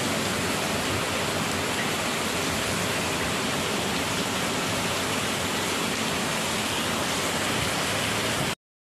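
Heavy rain pouring down steadily, an even hiss that cuts off suddenly near the end.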